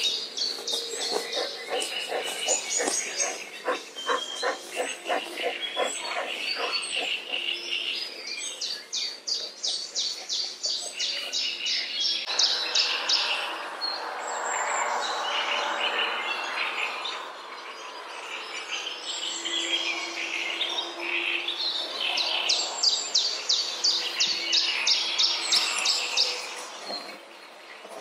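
Several songbirds singing, with fast repeated trills and chirps throughout; a steady hiss joins in for a few seconds midway.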